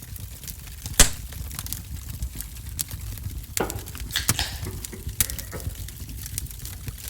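Wood fire in a wood-burning stove crackling, with scattered sharp pops over a steady low rumble; the loudest pop comes about a second in.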